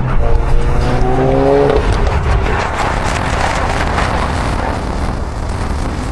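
A car engine revving hard, its pitch climbing over about a second and a half. It is followed by a few seconds of loud, even rushing noise.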